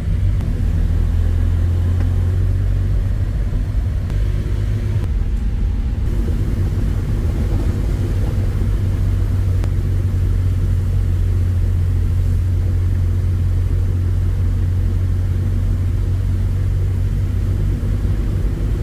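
A steady low rumble, loud and unchanging.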